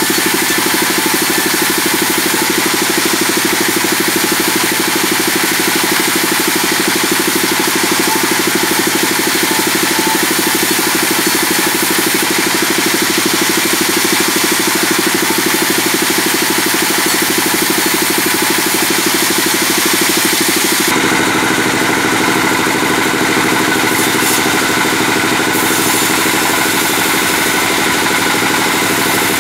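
Sawmill bandsaw running with a loud, steady drone while sawing hardwood, on a new blade being tested for sharpness. The tone changes abruptly about 21 seconds in.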